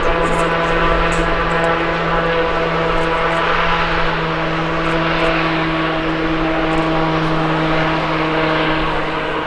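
Aircraft engines running close by: a steady low hum and a set of fixed tones over a rushing noise.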